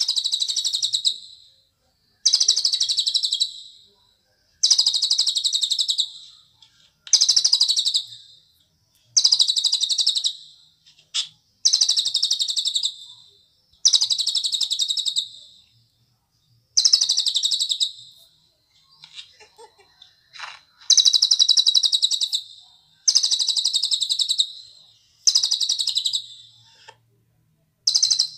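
Cililin bird singing its song: high, fast-trilled phrases of under two seconds, each starting loud and fading away, repeated every two seconds or so with short pauses, with one longer pause about two thirds of the way through.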